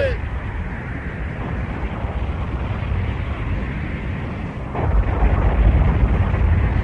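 Cartoon battle sound effects: a steady low rumble that swells into a louder, explosion-like rumble about five seconds in.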